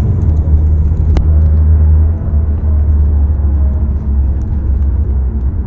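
Steady low rumble of a semi-SUV's engine and tyres heard from inside the cabin while driving on the highway, with one sharp click about a second in.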